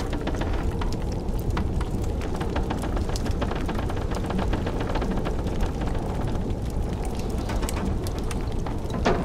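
Wood fire crackling, with frequent small sharp pops and a louder crack near the end, over a steady low rumble of blizzard wind.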